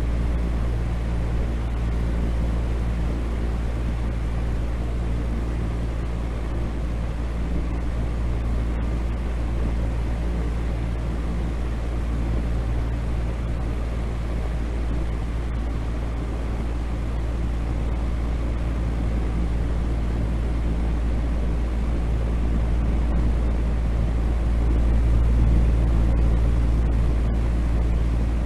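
Steady, deep rumbling noise sleep sound, heavy in the bass with a low hum running through it, swelling slightly near the end.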